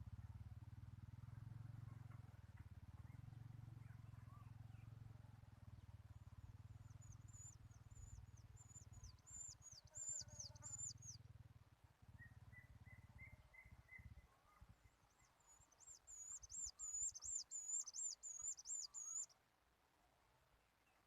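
A bird calling in two runs of quickly repeated high chirps, about three a second: one in the first half and a louder run near the end that stops abruptly. Under the first part there is a faint low hum, which stops about two-thirds of the way through.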